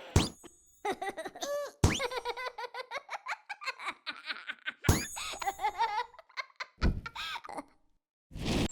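Animated cartoon character laughing and giggling in quick bursts, broken by a few sharp hits, some with a bright high ring.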